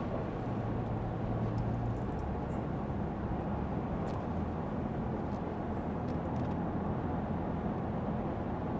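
Steady road noise of a Lexus ES 350 F Sport sedan driving on wet pavement: even tyre hiss and rumble with a low hum from its 3.5-litre V6.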